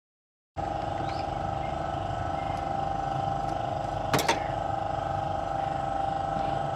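Toyota Corolla GLi engine running steadily, starting abruptly about half a second in, with a sharp double click about four seconds in.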